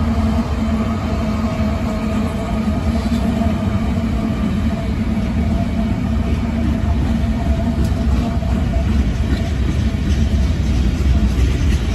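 Union Pacific diesel-electric freight locomotives passing at close range: a heavy engine rumble with steady hums. About nine to ten seconds in, one hum fades as the last locomotive goes by, and the clicking of freight-car wheels on the rails comes in.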